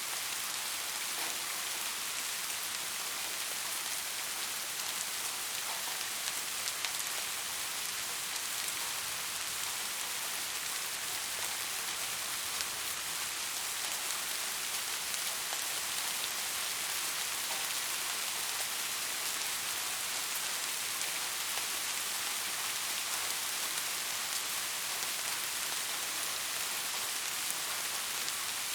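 Steady rain: an even hiss of falling rain with the faint ticks of individual drops, unchanging throughout.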